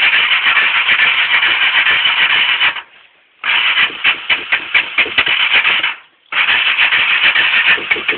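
The electric starter cranks the single-cylinder engine of a 1984 Honda Fourtrax ATV in three long pulls, stopping briefly about three seconds in and again about six seconds in, without the engine catching. It is a cold start with heavy choke after the machine has sat for months in deep cold.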